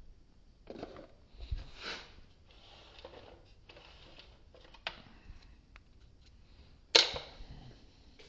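Tools and small metal parts being handled: soft rustling and light clicks, then a sharp metal clack about seven seconds in, the loudest sound.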